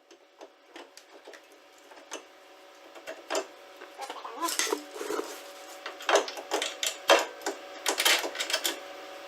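Irregular metallic clinks and knocks of hand tools and suspension parts being handled, sparse at first and busier and louder from about three seconds in, over a faint steady hum.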